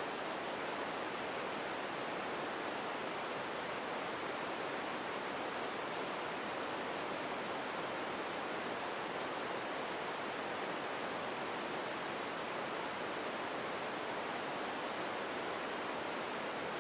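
Empty ambience noise: a steady, even hiss that neither rises nor falls, with no distinct sounds in it, strongest in the middle range.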